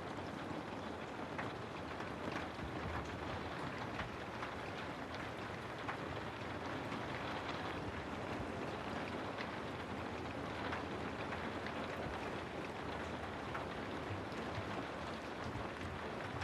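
Steady rain falling, an even hiss with scattered sharp taps of individual drops.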